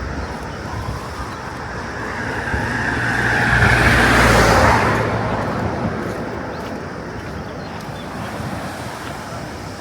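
A car driving past, its engine and tyre noise swelling to a peak about four seconds in and then fading away.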